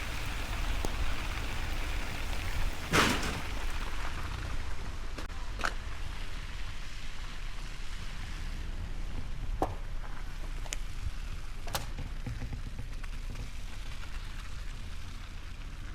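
Inside the cabin of an electric Tesla Model S driving on a snowy road: a steady low tyre and road rumble under an even hiss like precipitation on the car. One louder swish comes about three seconds in, and a few sharp ticks follow later.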